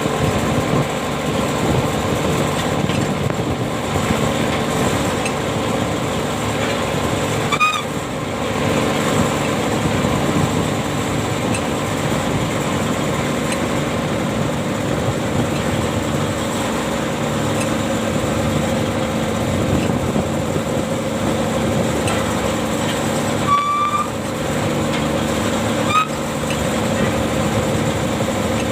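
Ship's anchor-hauling machinery running with a steady engine hum, with a few short high squeaks about a third of the way in and twice near the end.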